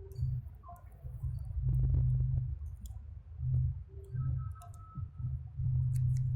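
Hands working on a small electronic device, making scattered small clicks and taps over uneven low bumps of handling noise.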